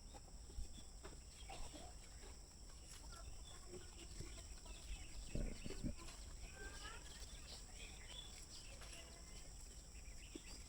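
Faint rural outdoor ambience with scattered small bird chirps and a few soft clicks. Two short low sounds come a little over five seconds in.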